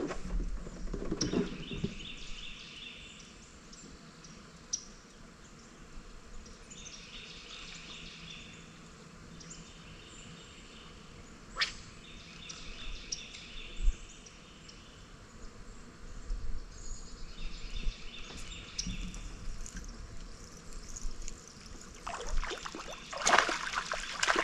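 Birds singing: a short trilled song repeated every few seconds, with thin high chirps. There are two sharp knocks midway. Near the end comes water splashing as a hooked fish is lifted toward the boat.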